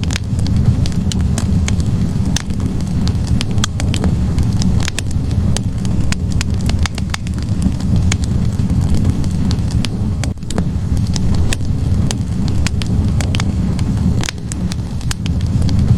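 Wood logs burning in a fireplace: a steady low rumble of flames with frequent sharp crackles and pops at irregular intervals.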